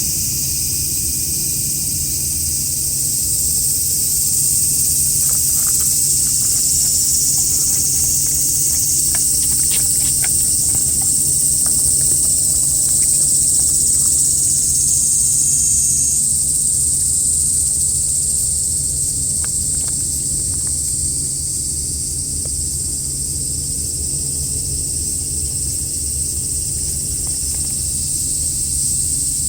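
Steady, high-pitched chorus of summer insects shrilling, over a low steady rumble, with a few faint light clicks between about five and twelve seconds in.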